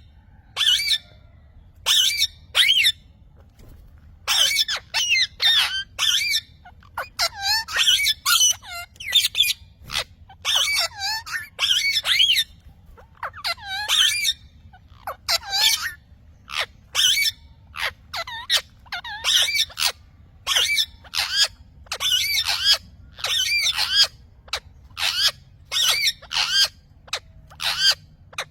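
Parrot calling: a long series of short, shrill squawks and chirps that bend up and down in pitch, coming one after another with brief pauses.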